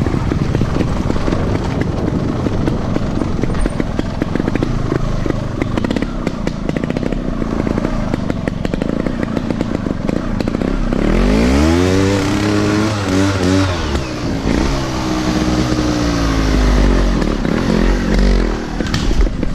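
Motorcycle engine running rough and low for about ten seconds, then revving up with a rising pitch, holding high and easing off again.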